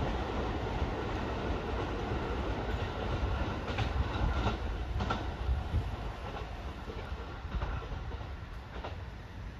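Utsunomiya Line electric commuter train pulling away over the tracks and points, its wheels knocking over rail joints a few separate times while the running noise slowly fades.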